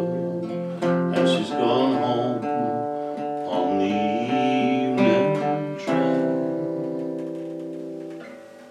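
Acoustic guitar playing the closing bars of a song, with a last chord strummed about six seconds in and left to ring, fading out.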